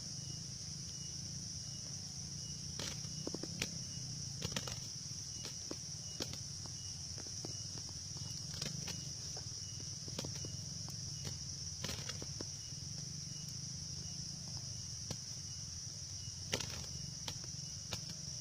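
Steady high-pitched insect drone, typical of crickets or cicadas, with a faint low hum underneath and scattered sharp clicks and taps at irregular intervals.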